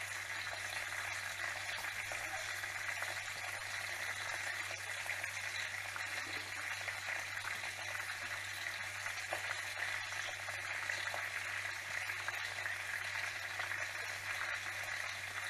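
Chicken frying in oil in a pan: a steady, even sizzle, with a low steady hum underneath.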